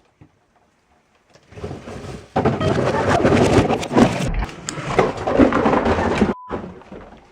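A pile of shoes and cardboard shoe boxes tumbling down from a high shelf: a dense run of knocks and thuds lasting about five seconds, starting about a second and a half in and stopping abruptly.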